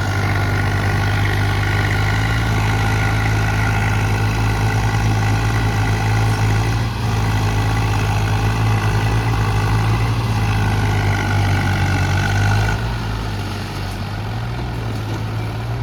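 Tractor diesel engine running at a steady speed, easing slightly quieter about three-quarters of the way through.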